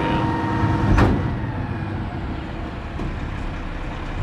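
Mack MRU McNeilus rear-loader garbage truck running, a steady diesel rumble with a faint whine over it, and one sharp metallic clank about a second in.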